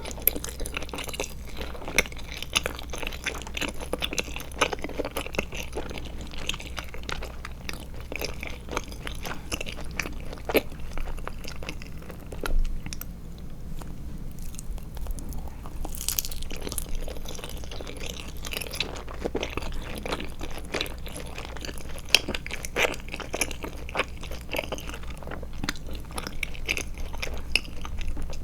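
Close-miked chewing of Trolli Glotzer eyeball gummies: a dense run of wet mouth clicks, smacks and biting sounds, with a short lull about halfway through and a sharper bite just after it.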